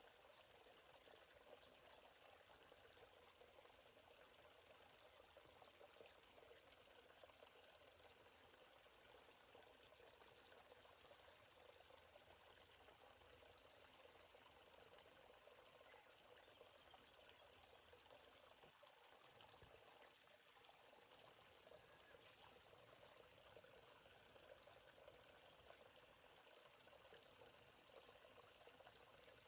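Steady, high-pitched chorus of insects, crickets or similar, with a faint trickling stream beneath it.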